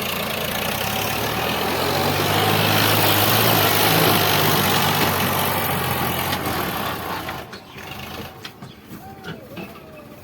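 Sonalika DI 745 tractor's diesel engine running, swelling louder toward the middle and then falling away sharply about seven seconds in, leaving a quieter background with a few clicks.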